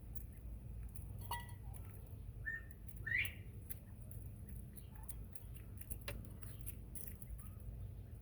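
Northern bobwhite quail giving a few soft, short chirps, the loudest a quick upswept call about three seconds in, over many light ticks and scratches from the birds moving about.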